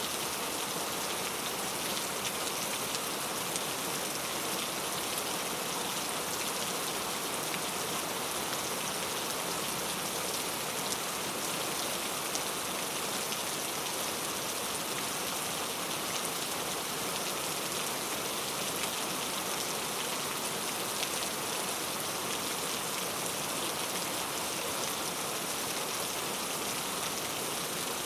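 Steady heavy rain falling, a dense even hiss with fine patter of individual drops throughout.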